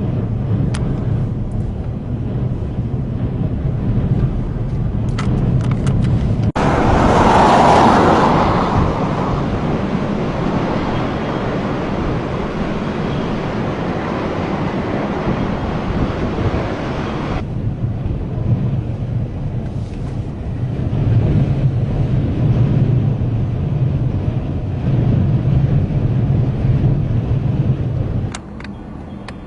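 Strong wind rushing and buffeting over a vehicle's running engine and road noise. A much louder hissing blast of wind noise starts abruptly about six seconds in and cuts off just as sharply some ten seconds later.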